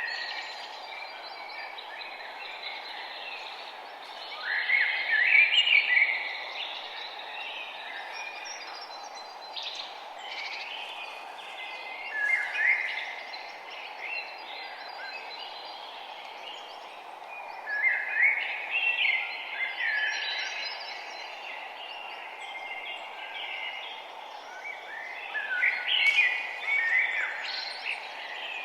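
Songbirds chirping and singing in phrases that come every few seconds, over a steady background hiss of ambient outdoor noise.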